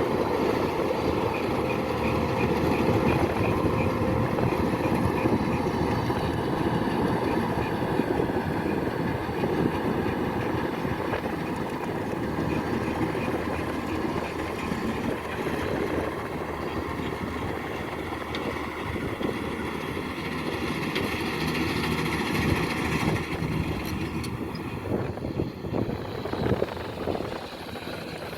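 Kubota DC-105X combine harvester's diesel engine running steadily with a dense mechanical drone. It eases a little near the end, where a few short knocks sound.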